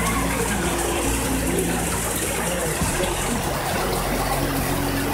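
Heavy rain pouring down, a dense, steady hiss of rain on the ground and roofs. Soft sustained background music tones sit underneath.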